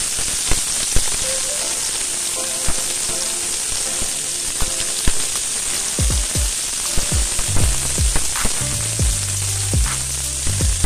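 Sliced onions and garlic sizzling steadily in hot oil in a stainless steel pot, with a few sharp clicks scattered through it.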